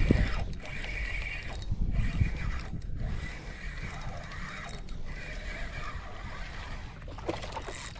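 Fishing reel being cranked while a hooked fish is fought, its mechanism whirring unevenly over a steady low rumble.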